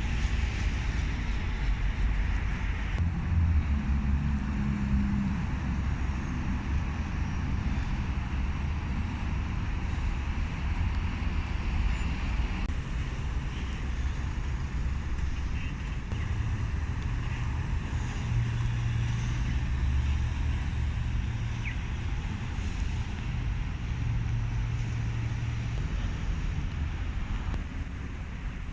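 Low, steady rumble of heavy engines and road traffic, with an engine hum that shifts in pitch now and then.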